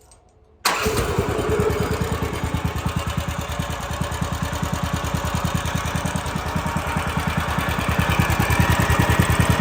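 Woodland Mills HM130 Max sawmill's gasoline engine starting suddenly about a second in and running with its drive belt off, gradually getting louder. It is started to check a loud noise at the centrifugal clutch that the owners think is a bearing.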